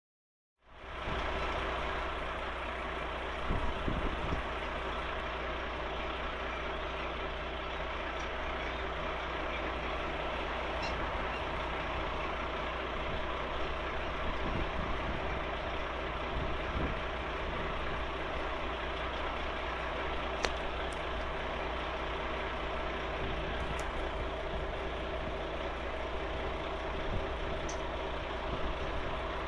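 A motor running steadily, with a few faint clicks and knocks over it.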